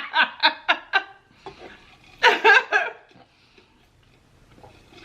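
A woman laughing: a quick run of rhythmic "ha" bursts that stops about a second in, then another short burst of laughter around two seconds in, and then quiet.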